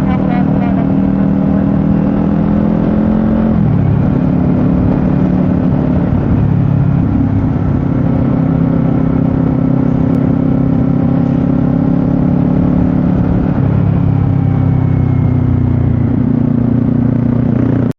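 Motorcycle engine running while being ridden, its pitch shifting in steps several times, over steady wind and road noise.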